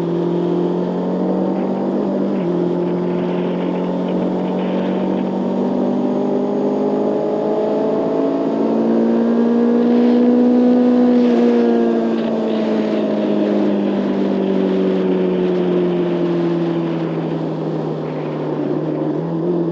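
Motorcycle engine running while riding, with wind and road noise. The engine note steps briefly about two seconds in, climbs steadily to a peak about halfway through, then falls slowly over several seconds as the bike eases off.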